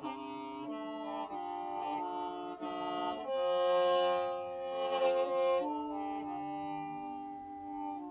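Hmong qeej, a free-reed mouth organ, playing several sustained reed notes at once that shift together in steps. It swells louder in the middle, then eases back.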